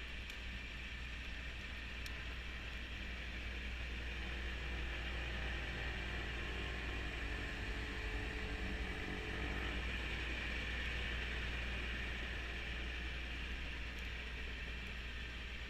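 Kubota B2650 compact tractor's diesel engine running steadily with its front-mounted snow blower working, a continuous engine hum under a broad hiss of fan and thrown snow that swells slightly midway.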